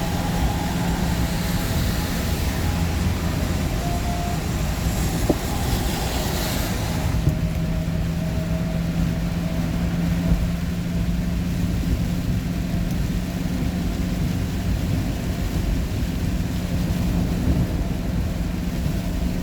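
Steady engine hum and road noise heard from inside a moving vehicle's cabin, with a higher hiss over the first several seconds that cuts off abruptly.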